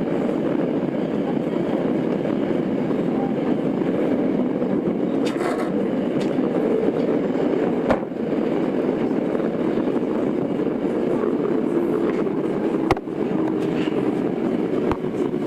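Running noise inside a Tokyo Metro 02 series Marunouchi Line car with IGBT inverter control, travelling through a tunnel: a steady rumble of wheels on rail. A sharp click comes about eight seconds in and another near thirteen seconds, and a faint steady tone sets in over the last few seconds.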